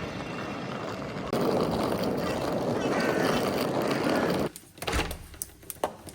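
Steady street traffic noise that drops away abruptly after about four and a half seconds, followed by a few short knocks and thuds.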